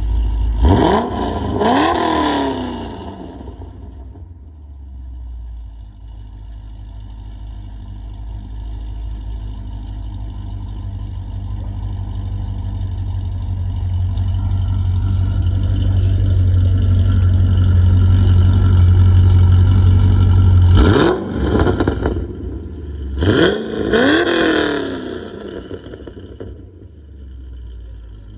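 Chevrolet C6 Corvette V8 being revved in quick throttle blips: two sharp revs near the start, then a steady rumble that slowly grows louder, then two more sharp revs before it drops back to idle.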